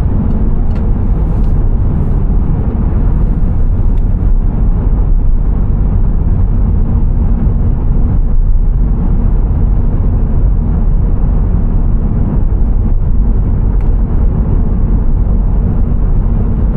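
Car driving on the road: steady low rumble of road and engine noise.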